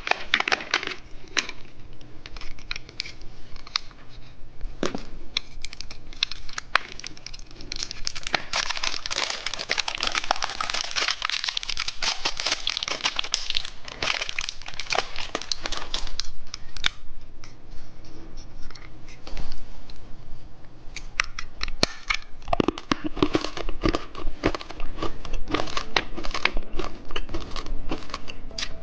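Plastic candy wrapping crinkling and tearing as a pack of dice-shaped candy is handled and opened: a long run of sharp crackles, thickest in the middle.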